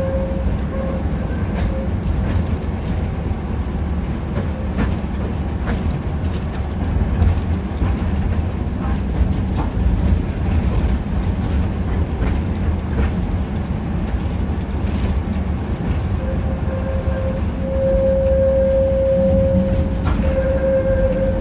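Tram car running along the track, heard from inside the car: a steady low rumble with the wheels clicking over rail joints. A steady whine comes in for the last few seconds.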